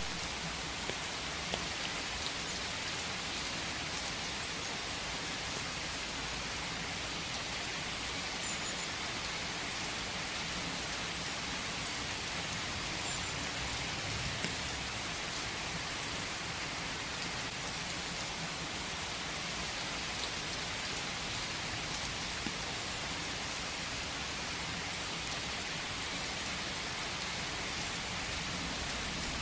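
Steady rain falling, a constant hiss with scattered individual drops ticking through it.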